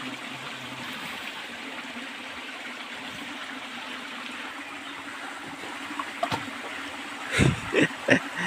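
A steady rushing noise, with several short loud voice-like calls near the end.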